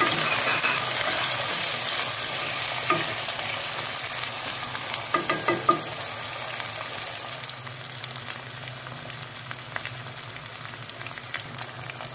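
Taro (arvi) sticks sizzling in hot oil in a nonstick wok, loud at first because they went in still wet from washing, and gradually dying down. A spatula stirs them, knocking against the pan once about three seconds in and a few times about five seconds in.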